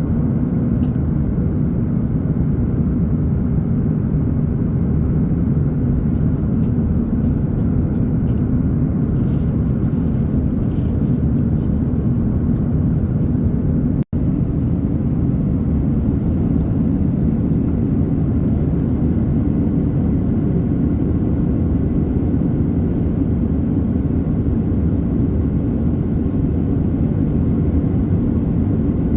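Steady cabin rumble of an Airbus A330-900neo in flight, heard from a window seat: the drone of airflow and its Rolls-Royce Trent 7000 engines. About halfway through, the sound drops out completely for a split second.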